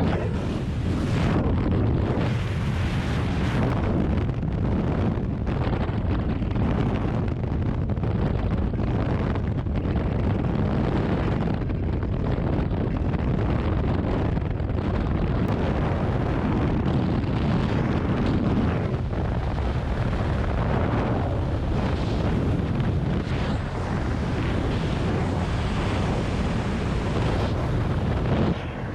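Steady, loud rush of wind buffeting a skydiver's camera microphone, with small flutters in level throughout.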